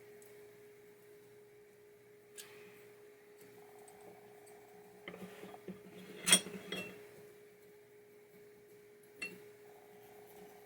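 A steady faint hum on one pitch, with a few light clicks and taps from handling small metal parts of the drop target assembly. The sharpest tap comes a little past the middle.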